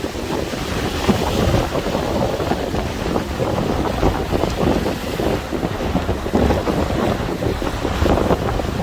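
Strong, gusting wind buffeting the microphone, over the wash of large waves against the shore.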